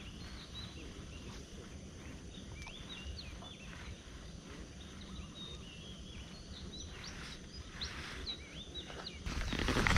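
Small birds chirping and calling many times with quick rising and falling notes over a low steady outdoor background. A louder rush of noise comes in near the end.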